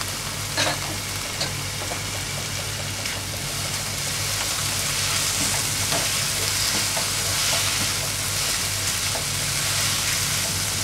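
Chopped tomatoes and onions sizzling in hot oil in a non-stick kadhai while being stirred with a silicone spatula. The sizzle is steady and grows a little louder through the middle, with a few light knocks of the spatula near the start.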